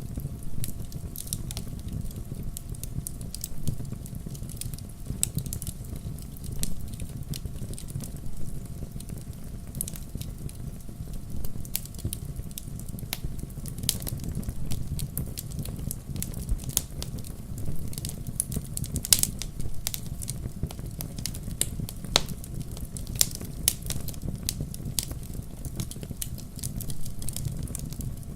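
Wood fire in a fireplace crackling, with irregular sharp pops and snaps from the burning logs over a steady low rumble of the flames; one sharper pop stands out a little past the middle.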